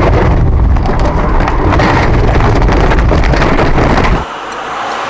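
Loud road and engine noise of a moving car picked up by a dashcam, a dense rumble with scattered rattles and knocks, which cuts off abruptly about four seconds in.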